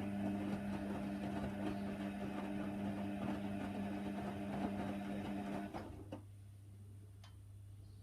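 Hoover Nextra HNWL 7146 washer dryer running partway through a Cotton 60 wash: a steady mechanical hum with light rattling that stops about six seconds in, leaving only a faint low hum.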